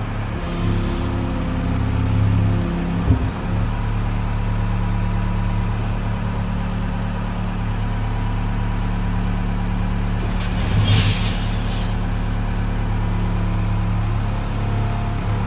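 Engine of an old loader running steadily, with a sharp knock about three seconds in and a brief hiss about eleven seconds in.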